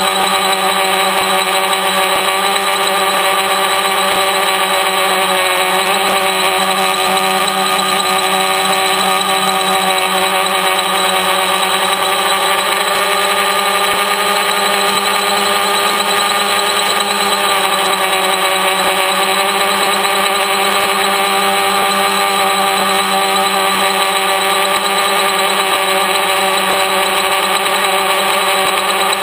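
A DIY T-copter's electric motors and propellers running steadily in flight: a loud, even hum made of several tones that drift slightly up and down in pitch.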